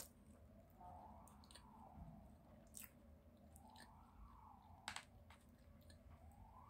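Close-miked chewing of sushi, with a few sharp clicks of mouth and chopsticks. Under it, a faint siren wails up and down about every three seconds.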